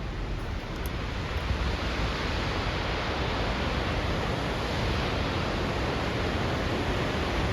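Steady rush of falling water from the Lechfall, the waterfall on the river Lech, growing slightly louder as it nears.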